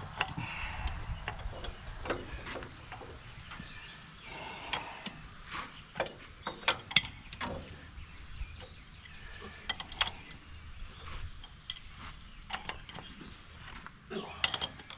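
Scattered light clicks and knocks of tools and metal parts being handled during work on an old tractor, at uneven intervals, with a few short high chirps now and then.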